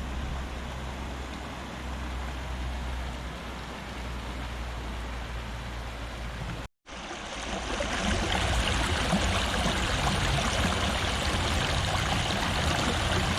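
Fast-flowing river water rushing steadily. A brief gap about halfway through, after which the rushing is louder and brighter.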